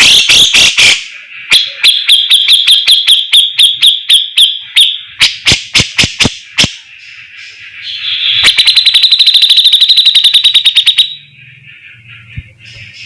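Cucak jenggot (grey-cheeked bulbul) singing loud, sharp, rapidly repeated notes: a quick burst, then a run of separate notes at about five a second, and a fast rattling trill about two-thirds of the way through.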